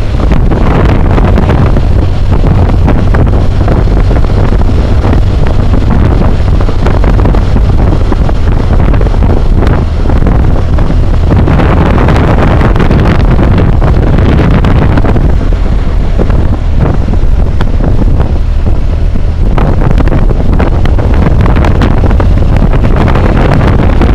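Wind roar buffeting a helmet-mounted camera's microphone while riding a BMW motorcycle at road speed, with the bike running underneath. The roar is loud and steady, swelling and easing every few seconds.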